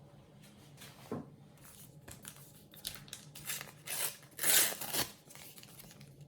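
Foil sticker packet being torn open and its wrapper crinkled, a string of short rips and rustles with the loudest tear a little past the middle.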